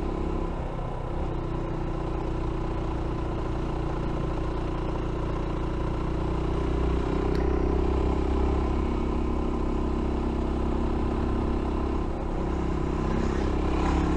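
F.B Mondial Pagani 300 motorcycle's single-cylinder engine running steadily at a gentle road pace, easing off briefly about half a second in and again about twelve seconds in, and pulling a little harder around the middle.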